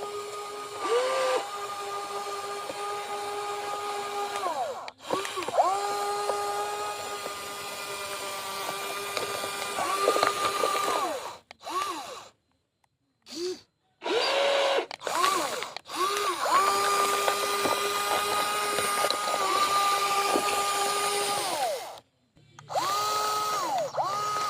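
Small electric motors of a WL16800 radio-controlled toy excavator whining as it works: a steady high whine with overtones that keeps stopping and starting, gliding up in pitch as a motor spins up and down as it winds down. There are two brief silent gaps.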